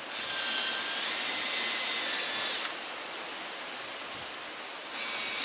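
Power drill running for about two and a half seconds with a high whine that steps up in speed about a second in, then stopping. It starts again, louder, near the end.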